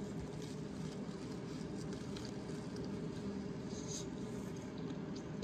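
A person chewing a crispy cornstarch-battered air-fried chicken wing, with faint scattered crunches and mouth clicks over a steady low background hum.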